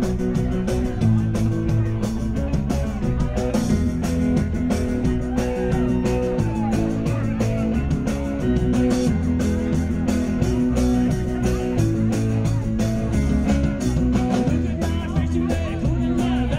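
Live rock band playing an instrumental passage, with electric guitar over bass and drums and a steady stream of cymbal and drum hits.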